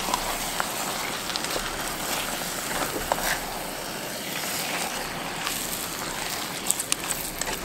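Stir-fry sauce and noodles sizzling and bubbling in a stainless steel pot on a camp stove, with scattered clicks and scrapes from a silicone spatula stirring them, several in quick succession near the end.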